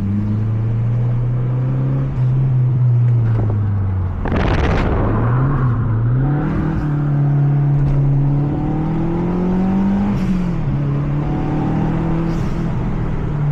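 Mazda 3 MPS turbocharged 2.3-litre four-cylinder heard from inside the cabin on track: it runs steadily, then climbs in pitch under acceleration and drops back about ten seconds in. A short loud rushing noise comes about four seconds in.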